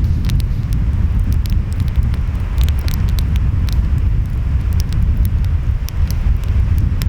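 Wood fire crackling with many sharp, irregular pops over a steady low rumble of surf and wind.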